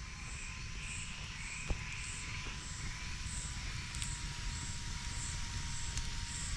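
Night insects chirping in an even rhythm, a high pulse about twice a second, with a few sharp pops from a crackling campfire.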